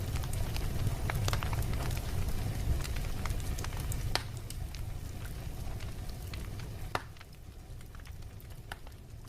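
Fire crackling in a fireplace: scattered sharp pops and snaps over a low steady rumble, growing quieter through the second half.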